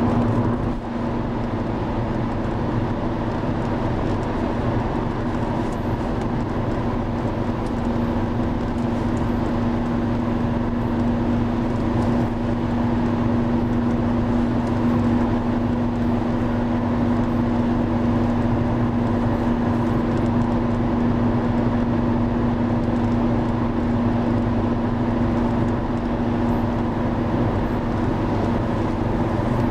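Steady roar of the Driva river in heavy flood, a dense rush of water with a low steady hum running through it.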